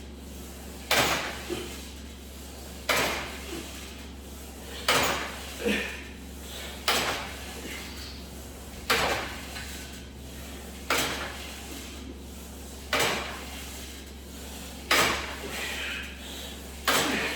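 Cable machine weight stack (90 lb) clacking back onto the rest of the stack on each crunch rep, a sharp metal knock about every two seconds, nine times, with a low steady hum underneath.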